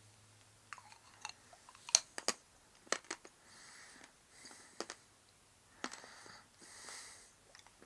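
A person chewing a piece of chocolate from a chocolate Santa: scattered crisp snaps and mouth clicks, with a few soft breaths in between.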